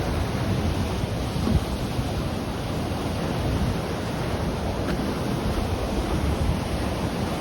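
Ocean waves breaking and washing on the shore in a steady, even rush, with wind buffeting the microphone.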